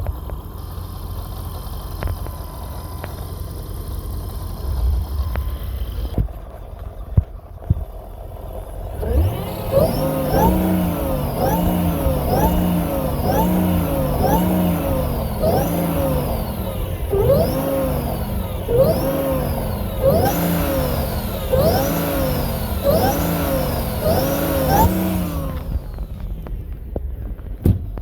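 Mercedes M113K supercharged V8 running at idle, then revved in about a dozen quick throttle blips, roughly one every second and a half. The supercharger whine rises and falls with each blip, before the engine drops back to idle.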